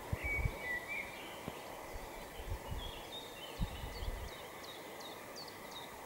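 Faint bird song: a few short chirps, then a series of short, quickly falling high notes, about two a second, in the second half. Occasional soft low thumps underneath.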